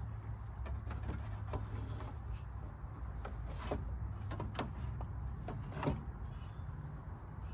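Irregular light clicks and knocks of tools and metal parts being handled while the radiator's bracket bolts are worked on, with one sharper knock about six seconds in.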